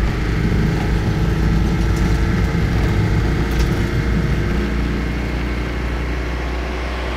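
Citroën 2CV AK350 van's air-cooled flat-twin engine running steadily as the van drives along, with a heavy low rumble under a steady engine note.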